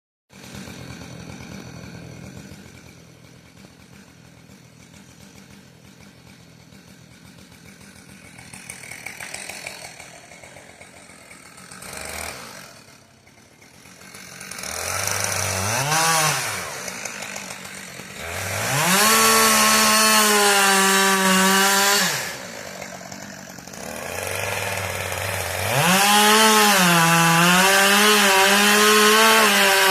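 Chainsaw running at low revs, then opened up to full throttle three times: briefly about halfway through, for a few seconds soon after, and again from near the end. In the last two runs the high engine note dips and wavers as the saw works under load, cutting wood.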